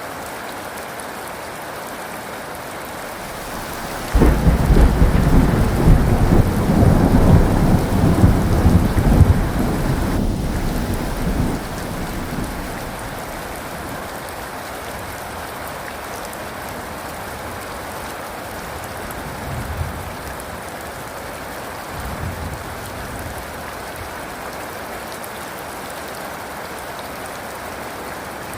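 Steady heavy rain with a thunderclap that breaks in suddenly about four seconds in, rumbles loudly for several seconds and dies away by about twelve seconds; two faint distant rumbles follow later.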